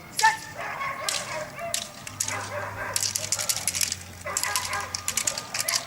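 A dog barking repeatedly in short, sharp barks, with quick runs of barks in the second half.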